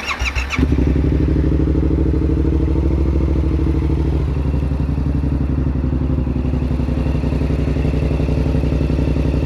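Yamaha R7's parallel-twin engine, fitted with a Yoshimura AT2 exhaust, cranked on the electric starter and catching within about half a second, then idling steadily as it warms up from a start.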